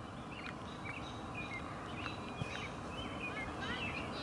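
Small birds chirping: many short, high chirps and twitters, several a second, over a steady outdoor background hum.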